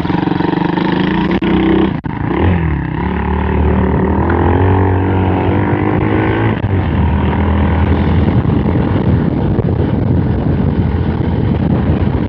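Small 110cc four-stroke single-cylinder pit bike engine running, with a short drop in level about two seconds in and the pitch shifting up and down as the revs change.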